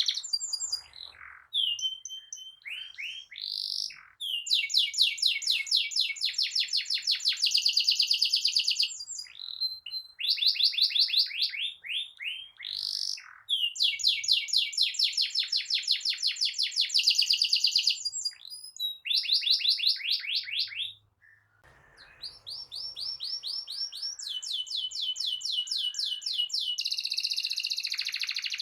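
Canary singing in full rolling song: long trills of fast, evenly repeated notes, each run lasting several seconds, linked by short chirps, with a brief pause about three quarters of the way through.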